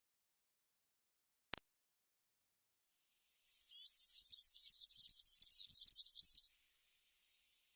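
A small songbird's high, rapid, twittering song, lasting about three seconds and starting near the middle, preceded by a single sharp click.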